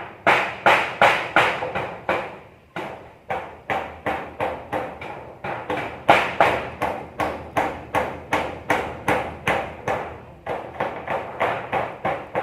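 Hammer blows struck in a steady rhythm, about two a second, with a short break about two seconds in and another near the end, typical of nailing during building work.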